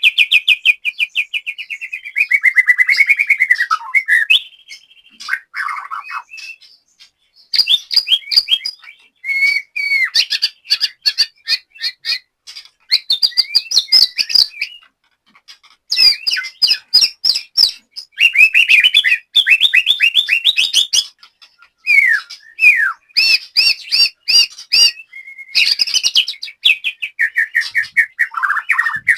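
White-rumped shama (murai batu) singing loudly in varied phrases with short pauses between them. The phrases mix rapid sharp clicking notes, slurred whistles and fast runs of notes falling in pitch.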